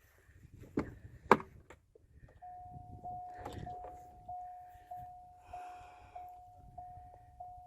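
Two knocks early on, then a vehicle's warning chime dinging steadily, one tone repeated about every 0.6 s with each ding fading into the next, starting about two and a half seconds in.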